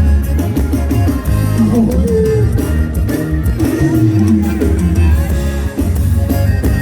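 Live band music, an instrumental passage led by guitar over a strong bass line.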